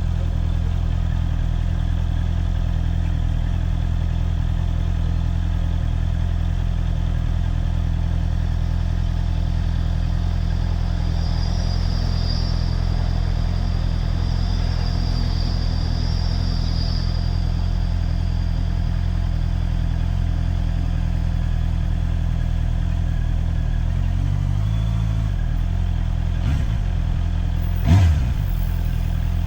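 Motorcycle engine running steadily at an even speed, with a brief change in pitch a few seconds before the end. A single sharp knock near the end.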